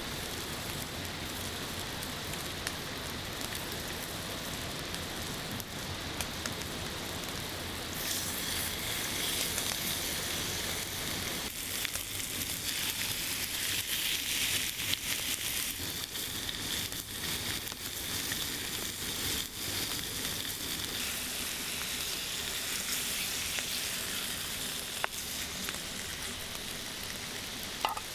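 Food sizzling in a pan over a campfire: a steady hiss that grows brighter and louder about eight seconds in and eases off after about twenty seconds.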